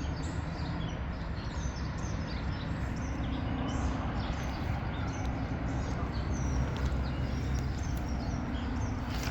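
Steady outdoor background noise with a low hum, and birds chirping on and off throughout.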